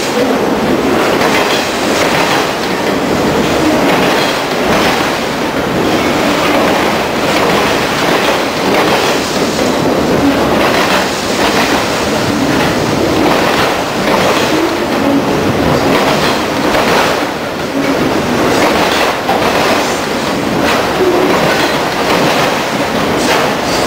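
Autorack freight cars of a long train rolling past close by: steady rumble of steel wheels on rail with repeated clacks as the wheels pass over rail joints.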